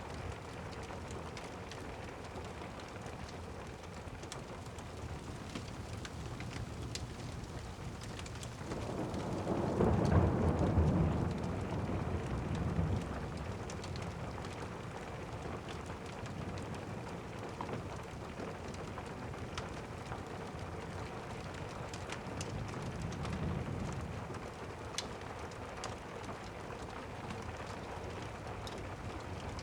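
Steady rain with thunder: a loud rolling rumble swells up about nine seconds in and dies away over some four seconds, and a fainter rumble follows about twenty-two seconds in.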